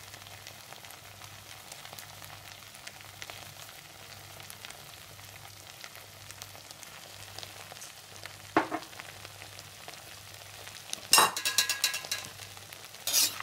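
Sauce-coated fried potato strips with onions and sesame seeds sizzling gently in a wok, a faint steady crackle. A single short knock a little past halfway, then a brief metallic clatter near the end.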